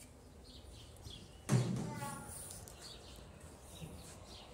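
Small birds chirping repeatedly, short falling chirps, with one sudden louder noise about a second and a half in that fades away within about half a second.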